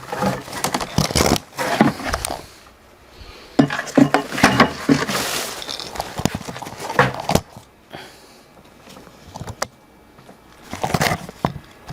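Metal clinks and clatter of parts or tools being handled and set down, in irregular clusters with quiet gaps between.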